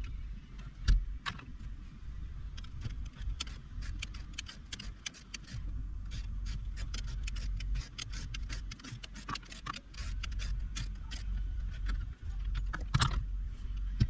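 Hand tools clicking and clinking against metal in quick runs of sharp ticks, with one louder knock near the end, over a steady low hum.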